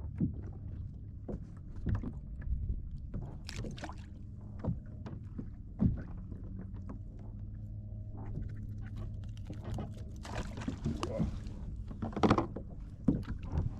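Small knocks, taps and clicks of gear being handled aboard a fishing kayak, over a steady low hum, with a cluster of louder knocks near the end.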